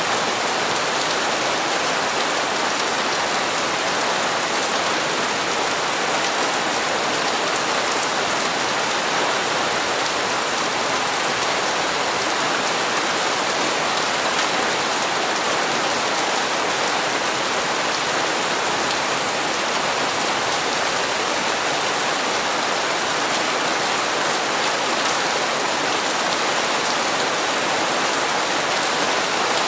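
Steady rain falling on hard surfaces, an even hiss of many drops with no change in strength.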